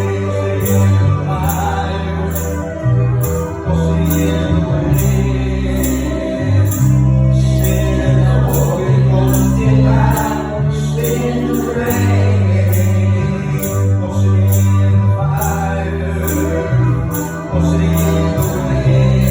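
Live gospel praise band playing, with a strong bass line, high percussion hits in a steady beat of about two a second, and voices singing at times.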